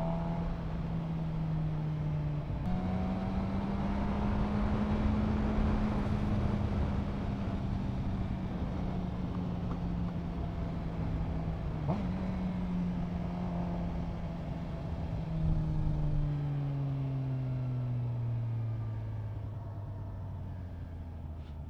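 Suzuki GSX-R750 inline-four engine running under way with wind rush over the helmet mic. Its note steps up a few seconds in, holds steady, then falls away over the last few seconds as the bike slows. A single sharp click comes about midway.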